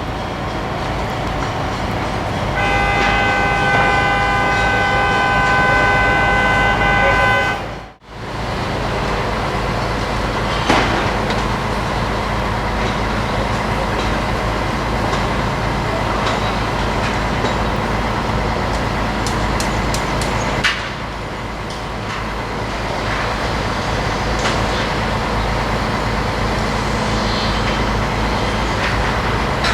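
A truck's diesel engine runs steadily while a loader crane works. A high, several-note tone is held for about five seconds near the start. The sound drops out briefly a little later, and a few sharp knocks come through afterwards.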